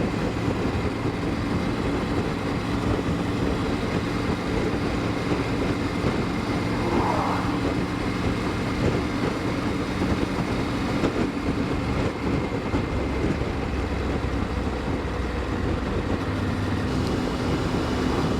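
Triumph Tiger 900 GT Pro's three-cylinder engine running at a steady speed under way, with wind and road noise.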